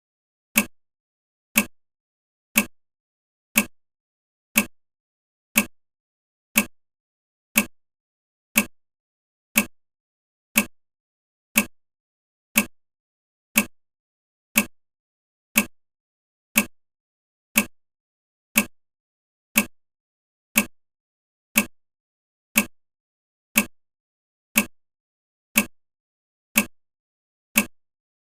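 Steady ticking: one sharp, identical click every second, each dying away quickly, with nothing in between.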